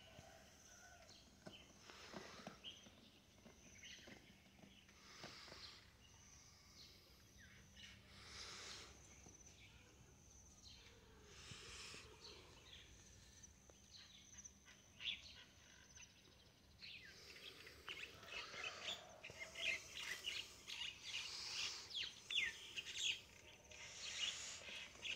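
Faint birds chirping: scattered short calls, turning into a quick, busy run of chirps in the last third, over a steady high whine.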